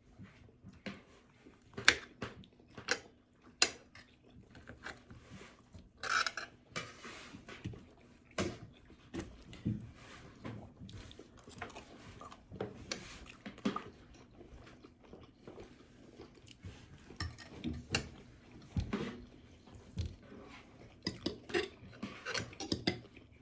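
Fork and spoon clinking and scraping against dishes, with chewing and mouth sounds, in irregular short clicks and knocks throughout.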